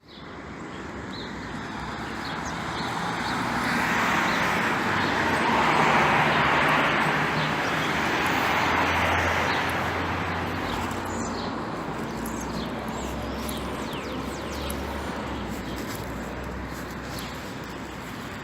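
Rain falling steadily, with a louder rush that swells through the first half and eases off again. Short bird chirps come through in the second half.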